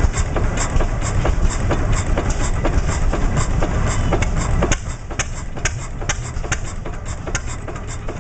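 Cummins oil engine running steadily with a regular knock of about three to four beats a second over a low rumble. It gets quieter about five seconds in.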